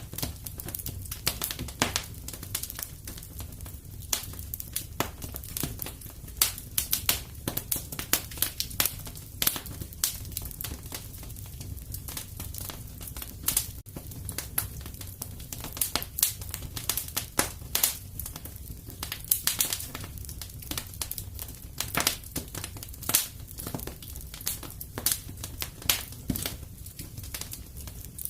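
Fireplace fire crackling: dense, irregular sharp pops and snaps over a steady low rumble.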